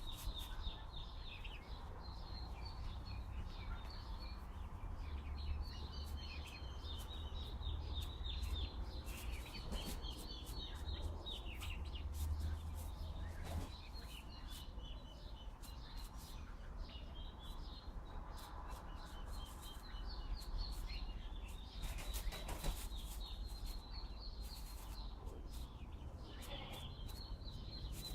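Small birds chirping and twittering continuously in quick, high, broken phrases, over a steady low wind rumble on the microphone.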